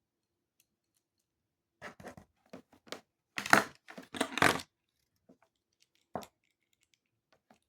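A run of short rustling, crinkling noises lasting about three seconds, loudest about halfway through, followed a little later by a single click.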